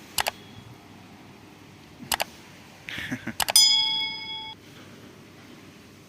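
Sharp clicks in pairs, then a metal clink that rings with a bright bell-like tone for about a second before dying away.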